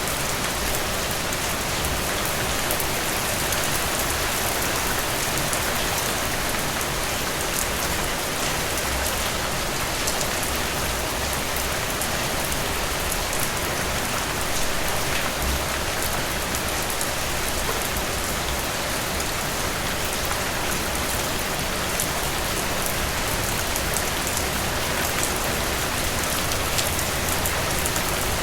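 Heavy rain falling steadily, a dense even hiss with many individual drops ticking on a surface.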